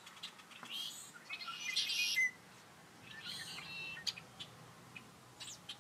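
Birds chirping in two short spells, with a brief pause between them.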